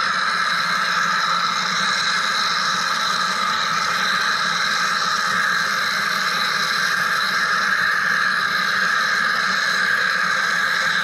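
Wire EDM machine running steadily: an unchanging mechanical hiss and hum with no strokes or pauses.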